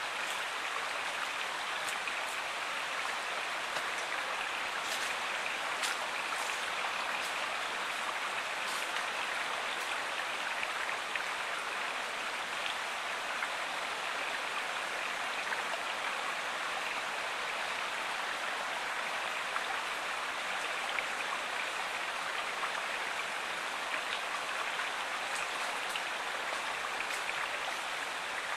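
A stream flowing steadily, an even rush of water with small splashes and drips here and there.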